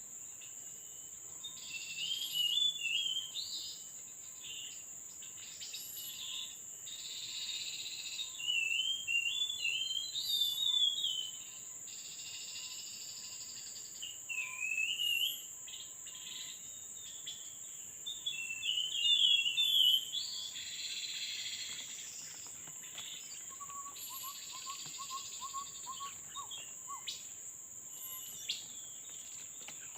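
Tepus babbler calls: short, quick warbling phrases repeated every few seconds, with a run of lower, evenly spaced notes near the end, over a steady high-pitched insect drone.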